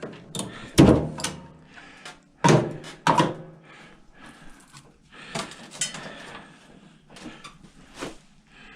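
A handful of sharp metal clanks and knocks at uneven spacing, louder in the first three seconds, from hand tools and scrap parts being handled while an old microwave is stripped for copper.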